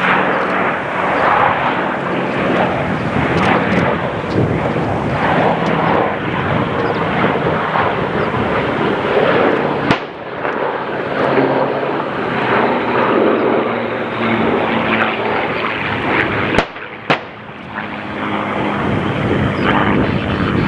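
Piston-engined warbird aircraft flying past, their engines droning steadily. Sharp clicks cut in about ten seconds in and twice near the end.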